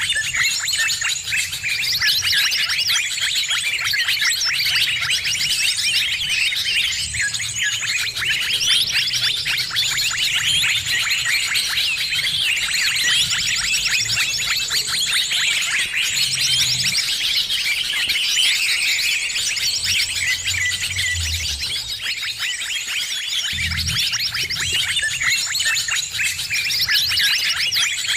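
A dense chorus of many small birds chirping and trilling at once, calls overlapping without pause: a noisy bird-lure mix made to draw in birds of all kinds. A faint low rumble comes and goes underneath.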